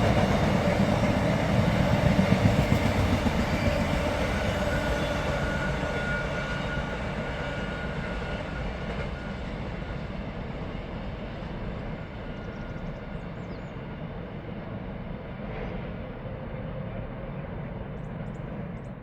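Freight train running along the line, the rumble of its wheels on the rails fading steadily as it draws away, with a faint metallic ringing from the rails.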